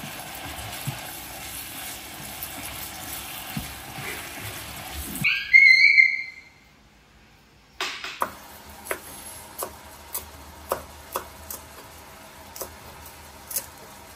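Sliced meat sizzling as it fries in a pan, stirred with chopsticks. About five seconds in, a short, loud, high-pitched sound cuts across it; after a brief quiet come sharp taps at irregular intervals.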